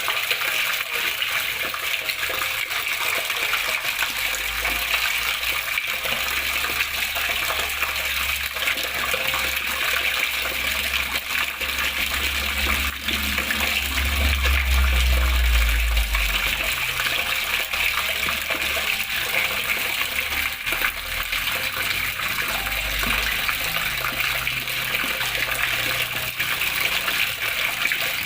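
Running water flowing and splashing steadily, a constant hiss of moving water. A low rumble comes and goes under it, strongest about halfway through.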